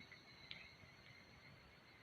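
Near silence: a faint steady high-pitched tone, with a single faint click about half a second in.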